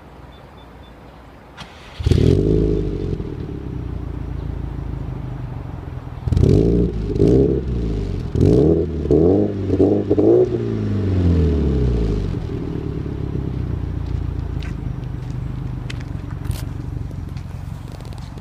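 Subaru Impreza WRX STI's EJ207 turbocharged flat-four, breathing through a 3-inch catless downpipe and Fujitsubo Legalis R exhaust, fires up about two seconds in and settles to idle. It is then revved in about five quick blips and drops back to a steady idle.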